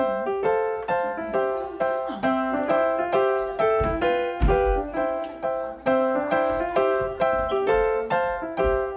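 Background piano music: a light, repeating tune of evenly paced notes, each one fading after it is struck.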